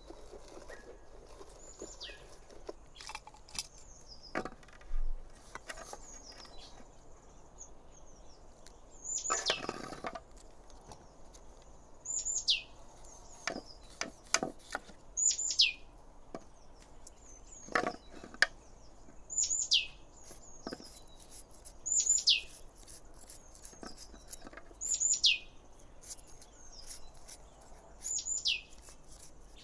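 A bird repeats a sharp whistled call that falls steeply in pitch, about every three seconds, the loudest sound here. Under it come scattered clicks and scrapes of a knife cutting and peeling on an enamel plate.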